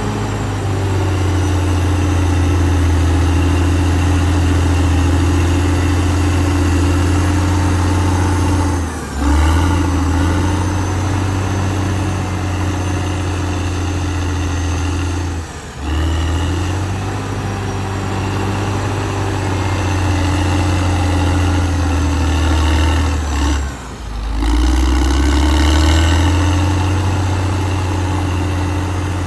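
Caterpillar D6R XL bulldozer's diesel engine running steadily with a strong low hum, dipping briefly three times, several seconds apart, as the load or throttle changes.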